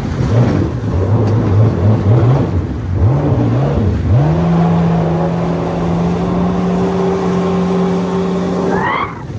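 Personal watercraft (jet ski) engine running under throttle. Its pitch rises and falls in short bursts at first, then climbs and holds steady for several seconds, and eases off near the end.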